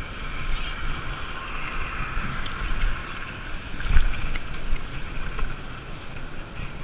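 Wind rumbling on the microphone of a camera carried on a moving bicycle, over a steady hiss of road noise, with a sharp knock about four seconds in.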